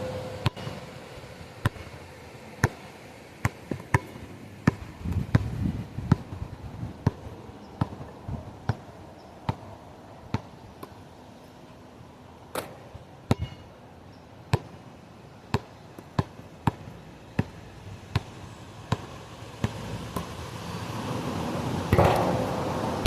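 A series of sharp knocks, roughly one a second at an uneven pace, with gusts of wind buffeting the microphone, the strongest near the end.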